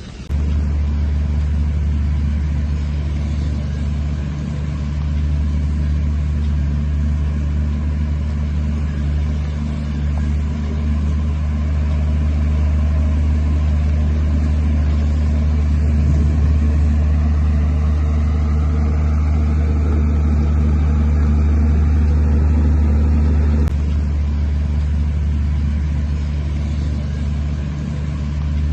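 Heavy earthmoving machine's diesel engine running steadily with a deep, loud hum. A faint rising whine is heard from about halfway and cuts off about two-thirds of the way through.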